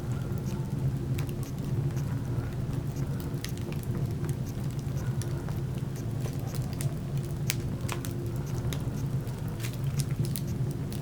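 Burning wood crackling in a fireplace: irregular sharp pops and snaps over a steady low hum.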